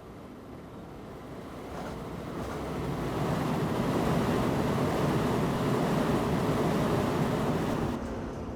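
Rushing noise of a moving train heard from inside its cab. It swells over a few seconds, holds loud, then drops off suddenly near the end.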